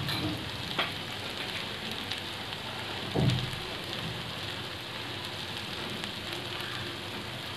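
Ground coconut-and-spice paste frying in oil in an aluminium kadhai: a steady, crackling sizzle, the paste cooked far enough that its oil has separated. A short knock comes about three seconds in.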